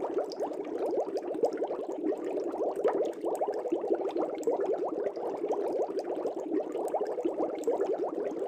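Air bubbles streaming up through a fish tank's water: a dense, steady bubbling made of many quick little gurgles.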